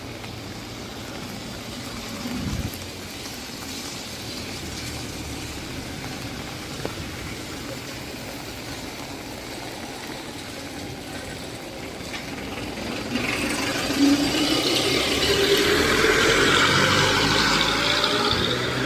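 Steady hiss of typhoon rain and wet surroundings. About two-thirds of the way through, a vehicle engine comes in louder with tyre hiss on the wet road, its pitch rising steadily as it speeds up, then it fades just before the end.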